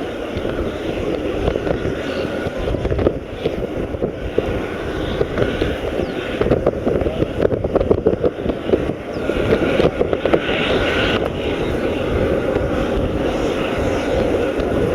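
Airbus A400M's four turboprop engines running steadily during a flying display, a broad, continuous drone mixed with wind buffeting the microphone.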